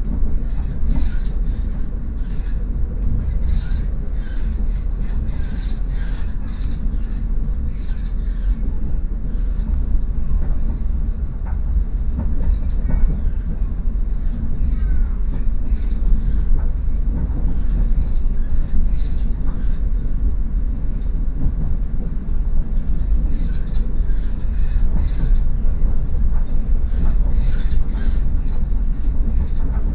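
Moving passenger train heard from inside the carriage: a steady low running rumble with frequent short rattles and clicks over it.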